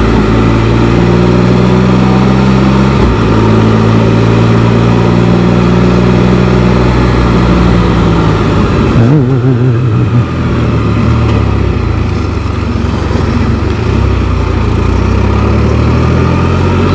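Can-Am Spyder three-wheeled motorcycle engine running on the move, heard from the rider's seat. The engine note shifts briefly about three seconds in and wavers around nine seconds, then settles at a lower pitch.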